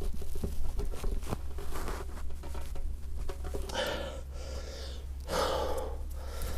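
A man breathing heavily from exertion, with two long puffing exhales about four and five and a half seconds in. A few light clicks come early on, and a steady low hum runs underneath.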